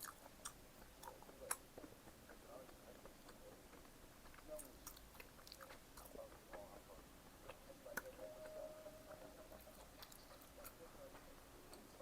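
Faint, close-miked chewing of pizza, with scattered sharp mouth clicks, the sharpest about a second and a half in and again about eight seconds in.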